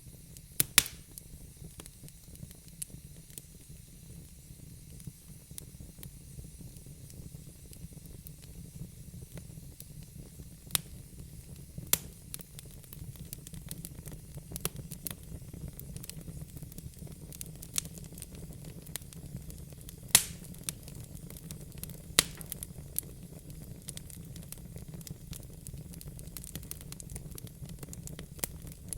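Wood fire burning in a fireplace: a steady low rumble and hiss of the flames with irregular crackles and sharp pops, a few louder ones about twelve and twenty seconds in.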